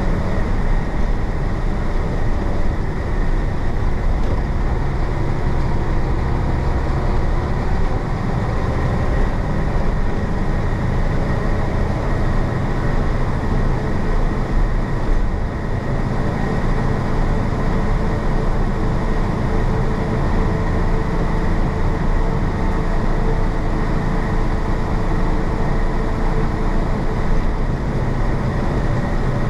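1966 Isuzu BXD30 bonnet bus's DA640 six-cylinder diesel running steadily while the bus drives along, with a strong low rumble and road noise.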